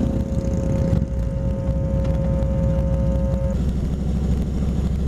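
2005 Kawasaki Vulcan 2000's big V-twin engine running steadily at cruising speed, with a steady whine that stops about three and a half seconds in.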